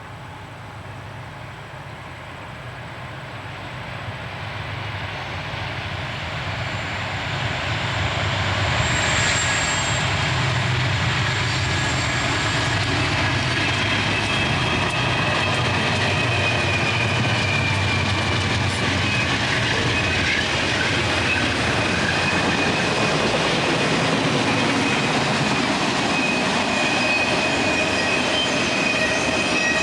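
A train drawing near and passing close by. It grows steadily louder over the first several seconds, then holds as a steady rumble of wheels on rail. From about halfway through, a high steady wheel squeal rings over the rumble.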